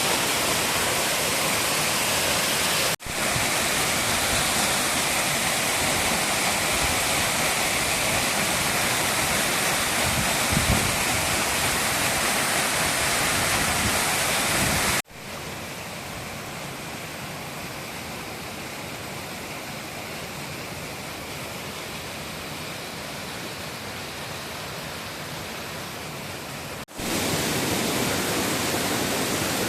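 Rushing water of a river's waterfalls, a steady noise that cuts off abruptly and resumes about 3, 15 and 27 seconds in. From about 15 to 27 seconds it is quieter and duller.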